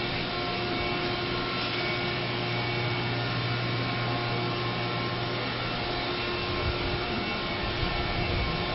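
Steady mechanical hum under an even fan-like hiss, with a low rumble building near the end.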